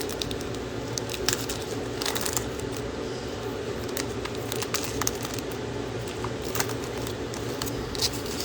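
Trading cards and a foil pack wrapper being handled, with scattered small clicks and crinkles over a steady background hum.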